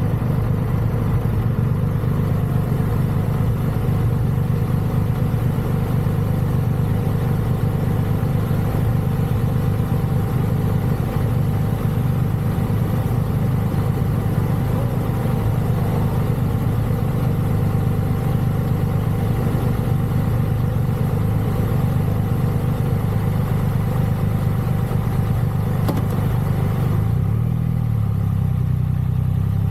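Triumph Rocket 3 motorcycle's big inline-three engine running at low, steady revs, its pitch shifting near the end.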